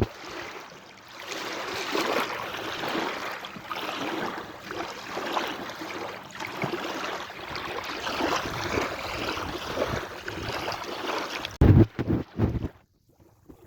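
Sea waves washing in a steady rushing hiss that swells and ebbs. Wind buffets the microphone in low thumps near the end, and the sound briefly drops almost out just before the end.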